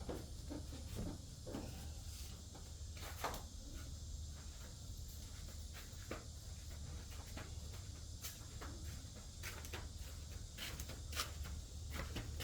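Faint scattered clicks and rustles of carpet being handled and fitted inside a car, over a steady low hum.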